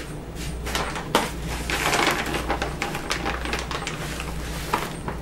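Cocoa butter pieces being tipped into a container: a run of small hard clicks and rattles, busiest about two seconds in.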